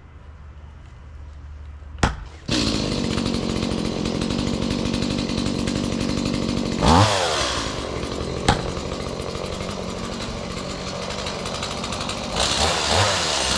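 Gas chainsaw running steadily, coming in suddenly about two and a half seconds in after a single sharp knock. Its engine pitch dips and climbs back about seven seconds in.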